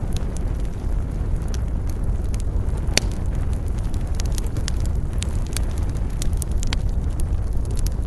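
Wood fire crackling in a fireplace: irregular sharp snaps and pops over a steady low rumble, with one louder pop about three seconds in.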